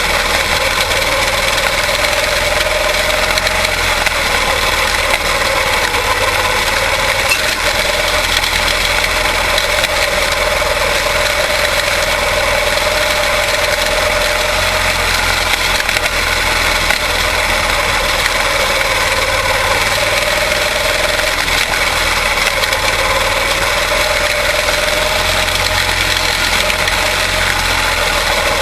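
Quarter midget race cars with Briggs & Stratton Animal single-cylinder engines running at racing speed, a loud, continuous engine drone whose pitch rises and falls every few seconds as the cars circle the track.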